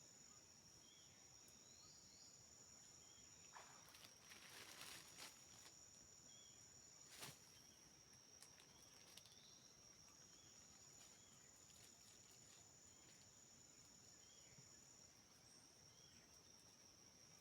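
Faint rainforest ambience: insects keep up a steady high-pitched trill. Faint short chirps come every second or two, with a few soft rustles and clicks about a third of the way in.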